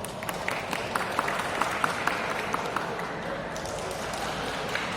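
Sounds of a badminton singles match on an indoor court: a quick run of short, sharp squeaks and taps in the first few seconds, over a steady murmur of voices.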